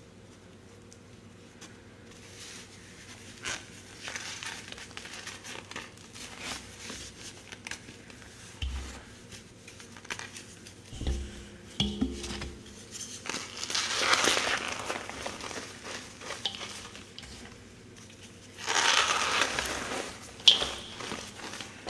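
Slabs of gym chalk being crushed and crumbled by hand: irregular crunching and crackling that builds up, with the longest, loudest crushes about two-thirds of the way in and again near the end.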